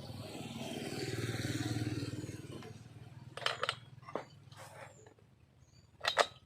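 Stihl 070AV two-stroke chainsaw engine running briefly. It grows louder, then winds down and stops about three seconds in. A few sharp knocks follow.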